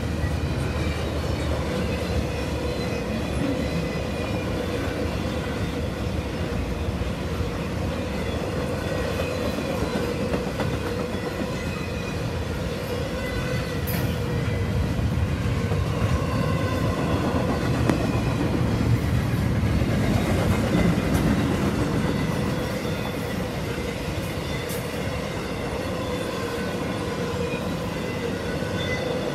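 Double-stack intermodal freight cars rolling past steadily on jointed track: a continuous rumble of steel wheels on rail, with thin steady squealing tones from the wheels over it. It swells slightly about two-thirds of the way through.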